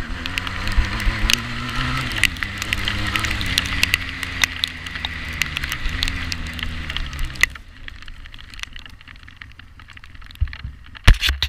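350cc quad bike engine running with its pitch rising and falling, with many sharp clicks and knocks over it. The engine sound stops abruptly about seven and a half seconds in, followed by a quieter stretch with a couple of loud knocks near the end.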